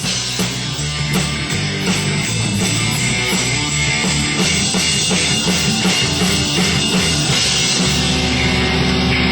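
Rock band playing an instrumental passage with guitar and drum kit, without vocals.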